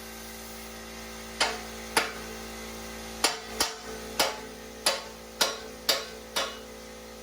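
Nine hammer blows on steel, spaced about half a second to a second apart, each with a short metallic ring, over a steady hum.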